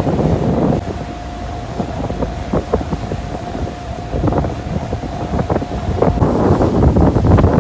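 Wind buffeting the microphone over the low rumble of a large sightseeing ship under way, with a faint steady whine through the middle; the buffeting grows louder near the end.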